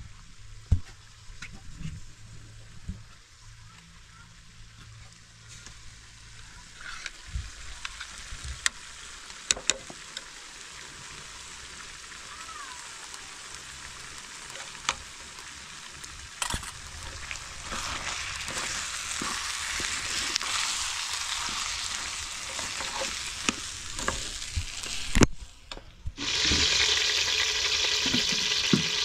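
Diced potatoes, onions and tomato paste frying in a pan. The sizzling is steady and grows louder, with clicks and scrapes from a spatula stirring against the pan. After a short break near the end, louder sizzling comes from hot fat in a large aluminium pot.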